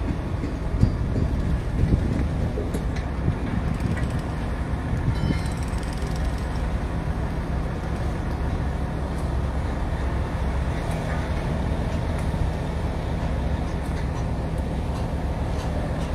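An engine running steadily: a constant low rumble and hum with no change in speed.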